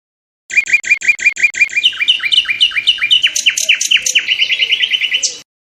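A songbird singing. It starts with a fast run of the same sharp note repeated about six or seven times a second, then moves into a phrase of quick downward-sweeping notes and ends in faster trills. The song starts abruptly about half a second in and cuts off abruptly near the end.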